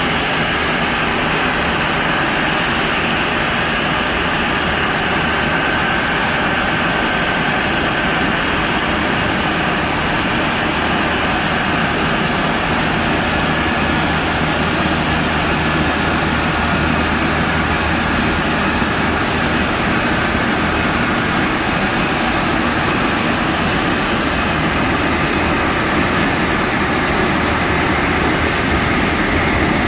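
Jet engines of a Boeing 747-251B(SF) freighter running steadily: a constant, unchanging noise with a faint low hum.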